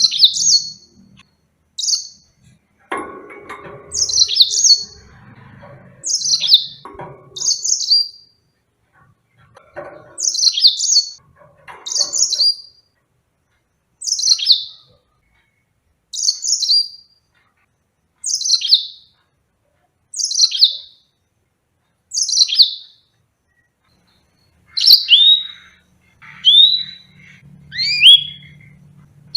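Yellow-fronted canary (Mozambique canary) calling: short, high notes that sweep downward, repeated about every two seconds. Near the end the notes change to rising sweeps.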